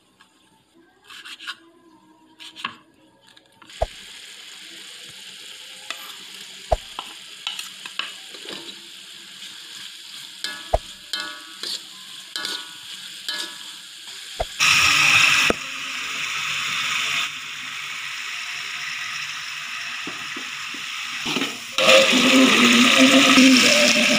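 A knife ticks a few times on a wooden board, then beef and chili sizzle in a hot wok while a metal spatula scrapes and knocks against the pan as it is stirred. Near the end the hiss jumps much louder as water is poured into the hot wok.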